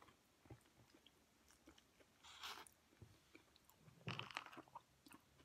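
Faint chewing, small wet mouth clicks, with a louder bite or crunch of food about two seconds in and again about four seconds in.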